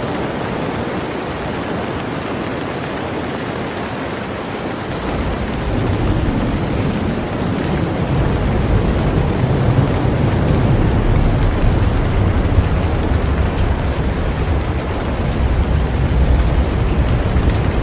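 Heavy rain falling steadily on a boat. About five seconds in, a deep low rumble joins the rain and grows louder, lasting to the end.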